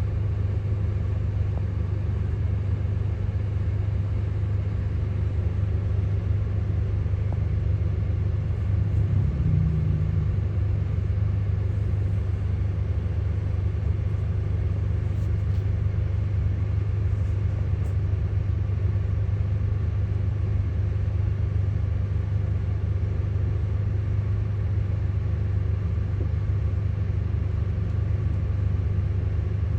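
Steady low rumble of road traffic, unchanging throughout, with a brief slightly higher hum about nine seconds in.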